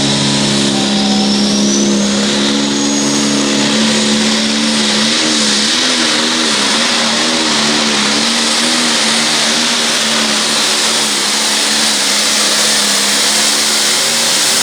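Turbocharged John Deere pulling tractor's diesel engine running flat out under load, dragging a weight-transfer sled, with turbo whistle and hiss over the engine note. The note wavers up and down midway, and the sound drops off suddenly at the very end.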